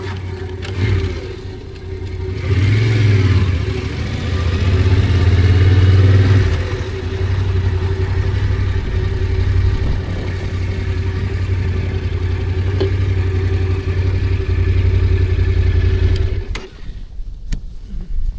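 Yamaha Ténéré motorcycle engine running, revving up about two to three seconds in, then holding steady before cutting off suddenly near the end.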